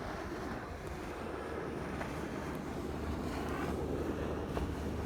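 Small fishing boat's motor running steadily, with wind noise on the microphone.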